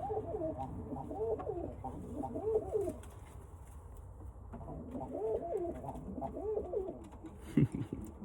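Birmingham roller pigeons cooing in the loft, in two warbling bouts with a pause between. A low rumble runs underneath, and a short knock comes near the end.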